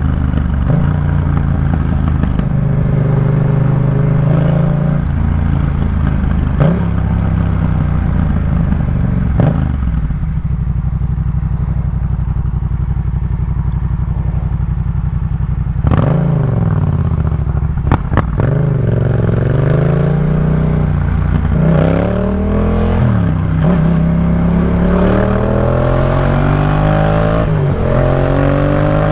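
Yamaha MT-07 parallel-twin engine running through a Jeskap K4 full exhaust system while riding. It holds a steady note for the first half. From about halfway the revs rise and fall through several gear changes, and near the end they climb steadily under acceleration.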